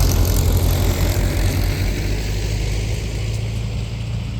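Vehicle engine running steadily with a deep, low rumble, easing off slightly toward the end.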